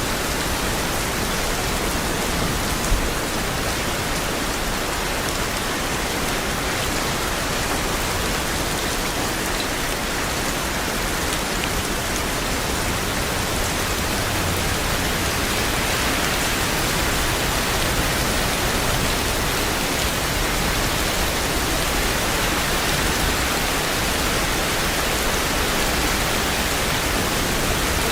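Steady rain falling, a dense even hiss of drops on surfaces, with one brief louder drop or tap about three seconds in.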